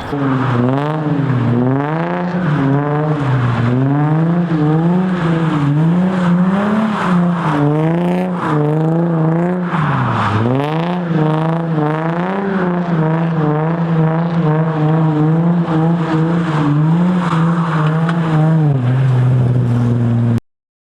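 A V6 sports-car engine revved up and down over and over while the car is thrown into donuts or a drift. Its pitch swings about once a second, then holds fairly steady, drops to a lower note near the end and cuts off suddenly.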